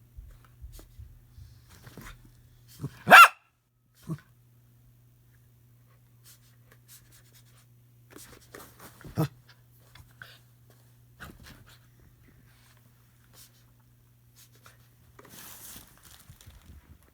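Dog barking: one loud bark about three seconds in and a second, shorter bark about nine seconds in, with small scattered noises between them. A short hiss comes near the end, over a steady low hum.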